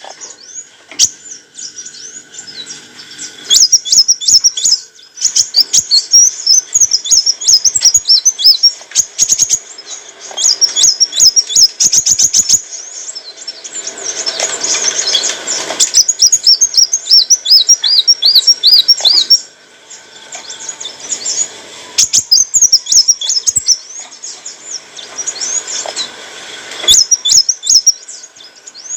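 Black sunbird (kolibri wulung) singing: rapid, high-pitched twittering in fast bursts of short chirps and trills, broken by brief pauses.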